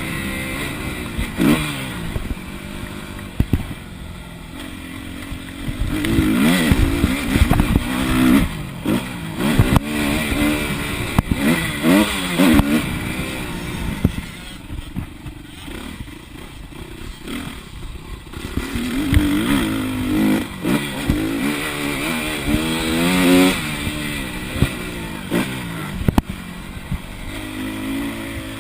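Motocross bike engine revving hard and easing off again and again, its pitch rising and falling as it accelerates and shifts, with clatter and knocks from the bike over rough ground.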